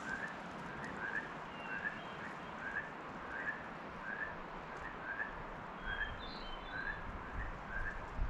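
A bird repeating one short high call at a steady pace, a little more than once a second, with a few fainter higher chirps between, over a steady outdoor hiss. A low rumble comes in near the end.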